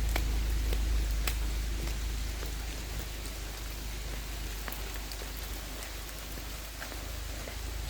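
Rain falling steadily, an even hiss with scattered individual drops ticking, over a low rumble that grows weaker over the first few seconds.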